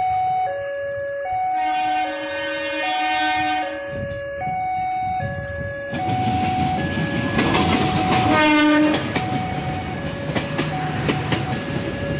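Diesel-electric locomotive sounding a long horn blast about two seconds in, then passing close by with engine noise and wheels clattering on the rails, and a short second horn blast midway through the pass. A two-tone hi-lo warning tone alternates steadily throughout.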